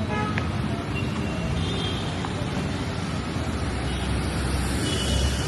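Road traffic noise: a steady rumble and hiss of vehicles, with a few faint brief high tones.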